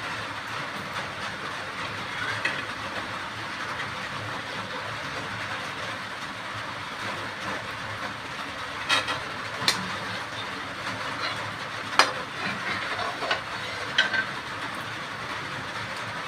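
Fish curry gravy sizzling in a pan on the stove, a steady hiss, with several sharp clinks of a utensil against the pan in the second half.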